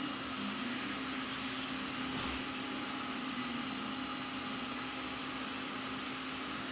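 Steady background machine hum: a constant low drone with faint higher whining tones above it, even throughout.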